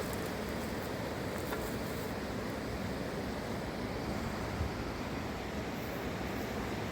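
Fast-flowing river rushing, a steady, even noise of white water.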